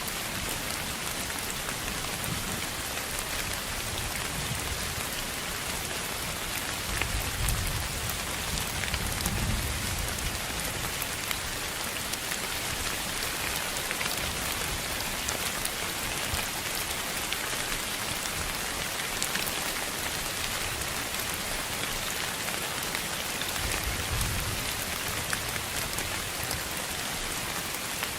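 A steady, even hiss of noise across the whole range, sounding like rain falling, with fine ticks in the highs. Soft low rumbles swell up about 7 to 10 seconds in and again near 24 seconds.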